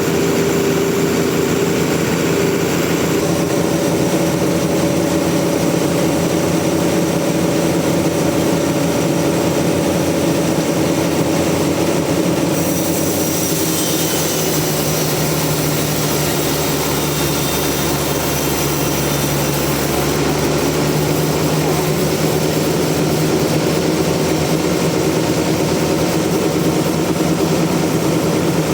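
Sawmill machinery running steadily, its engine sound holding an even level with a few shifts in tone, about a few seconds in, near the middle and again about two-thirds of the way through.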